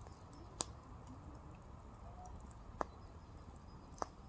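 Firewood burning in a fire pit, crackling, with three sharp pops spread across a few seconds over a faint, steady background.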